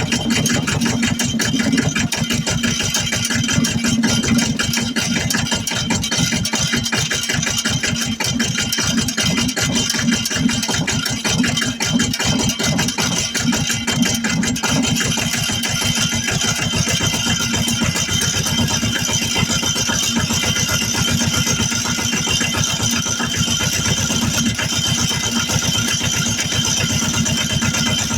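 Hinomoto E18 diesel tractor engine idling steadily with an even, rapid firing beat, still cold just after a cold start on a 27-degree morning.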